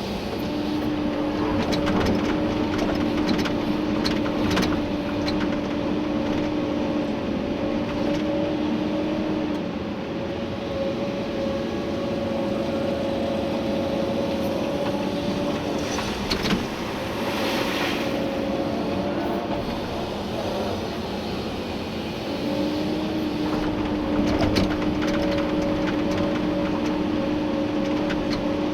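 Komatsu PC290-11 excavator working, its engine and hydraulics giving a steady whine that drops away briefly a couple of times, with scattered knocks and a short hiss about seventeen seconds in.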